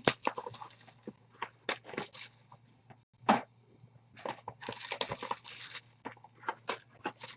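Crinkling and rustling of packaging handled at a table, with scattered light clicks and taps and a longer rustle about four to six seconds in.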